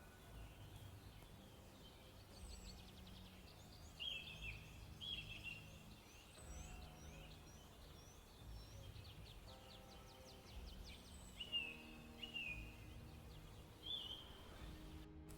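Faint songbird calls: short chirps and falling whistled notes, with a couple of quick trills, over a soft low background.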